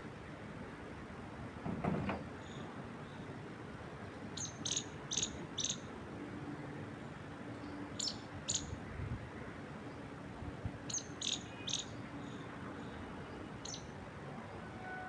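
Steady wind through trees, with a bird giving short high chirps in quick groups of two to four notes. A brief low thump about two seconds in is the loudest moment.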